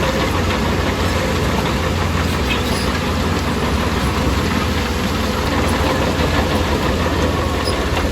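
Heavy diesel engine of a bulldozer running steadily, a low, even drone.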